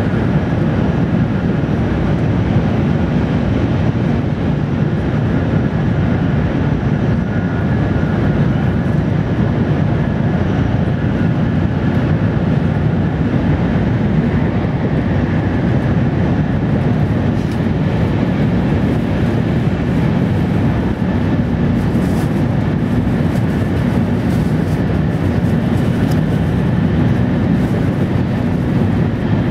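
Steady running noise of an N700-series Tokaido Shinkansen train heard from inside the passenger car: a dense low rumble from the running gear with faint high tones above it and a few light ticks in the second half.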